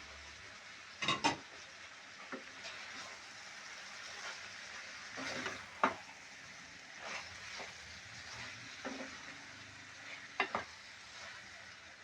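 Chicken and bitter gourd (karela) sizzling as they fry in a pan, stirred with a spoon that scrapes and knocks against the pan: twice about a second in, a few times midway, and once more near the end.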